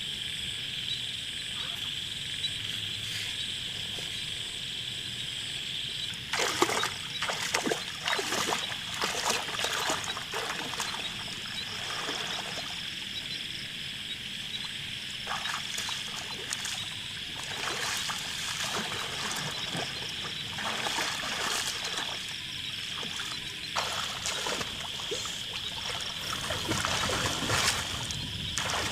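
Water splashing and trickling in irregular bursts, starting a few seconds in, over a steady high insect chirring.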